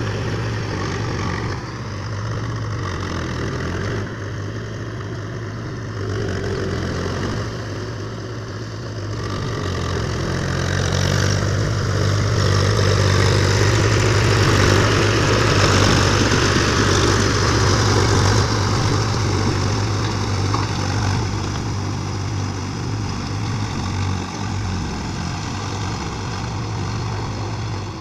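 Swaraj tractor's diesel engine running steadily while ploughing, swelling louder for several seconds in the middle and then easing back.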